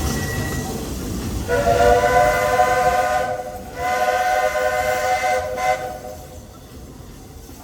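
Walt Disney World Railroad steam locomotive running, then its steam whistle blowing two long, chord-like blasts, each about two seconds, with a short break between.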